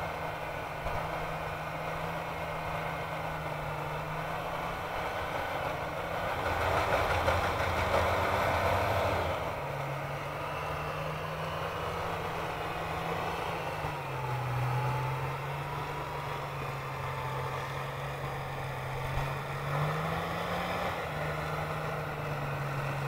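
Off-road vehicle engine running at a steady speed. About six seconds in it gets louder and rougher for around three seconds, then settles back, shifting pitch a couple of times.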